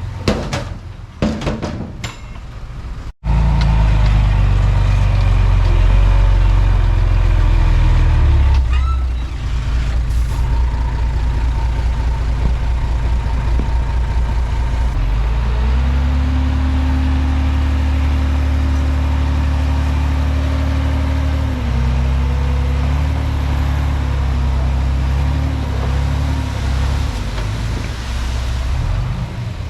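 Diesel engine of a Komatsu D31P bulldozer running hard, its pitch and load shifting several times as it works. The sound cuts out for an instant about three seconds in.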